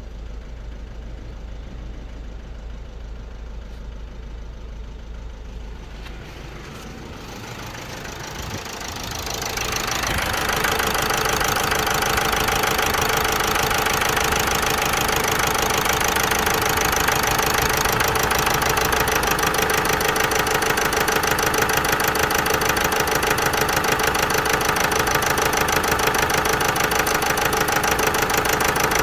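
Vauxhall Meriva 1.6 CDTI four-cylinder diesel engine running steadily with an even pulsing beat. It gets markedly louder about eight to ten seconds in and then holds steady. It is running with a misfire logged as P0016, crankshaft and intake camshaft position correlation not plausible.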